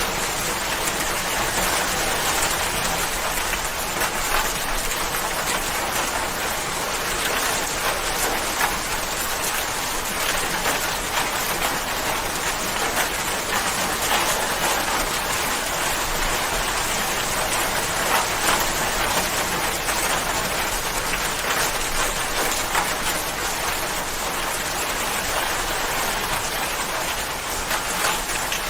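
Steady rain falling, a dense even hiss with many fine drop ticks on a surface.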